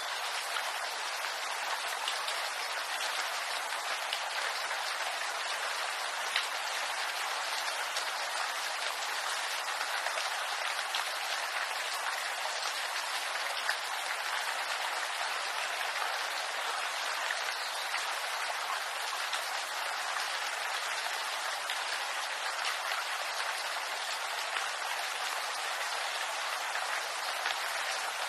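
Steady rain pattering on bamboo leaves, an even hiss with scattered small drop ticks.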